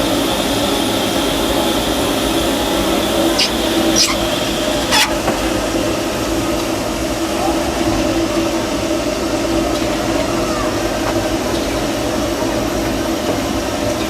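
Steady mechanical hum and rumble in the cab of a 1925 Baldwin steam locomotive, with a few sharp metallic clanks about three and a half to five seconds in.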